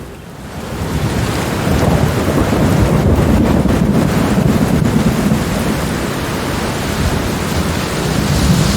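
Steady rain with a long, rolling rumble of thunder, fading in at the start and building over the first two seconds, then holding.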